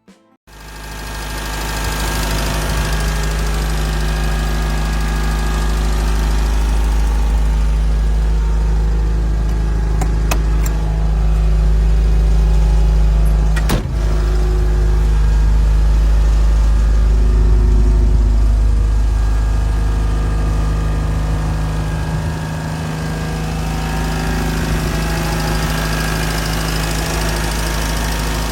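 The four-cylinder engine of a 1974 MGB GT running steadily at idle, with a deep rumble. About halfway through there is a short click and a brief dip.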